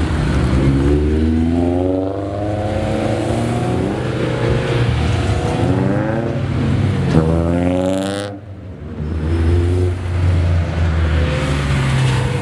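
Honda S2000 engine revving hard as the car accelerates, its pitch climbing. A second, steeper climb ends about eight seconds in with a sudden drop as the throttle is lifted, then the engine picks up again.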